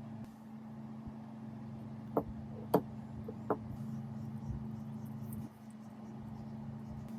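A steady low hum, with three short sharp clicks about two, two and three-quarter and three and a half seconds in, the middle one the loudest.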